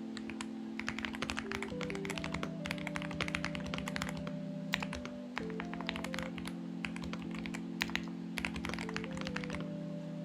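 Typing on a Xinmeng X98 mechanical keyboard: quick runs of key clicks in uneven bursts with short pauses, thinning out near the end. Soft background music with sustained chords plays underneath.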